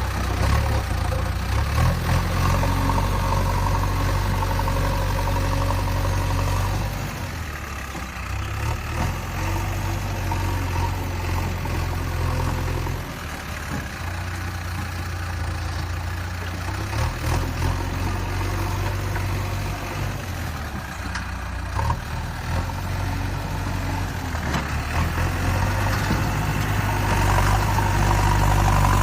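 JCB backhoe loader's diesel engine running steadily at low revs while working. Its level drops about seven seconds in and builds again near the end.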